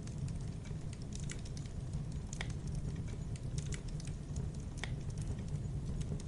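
Wood fire burning with a steady low rumble and frequent small crackles, with two sharper pops about two and a half and five seconds in.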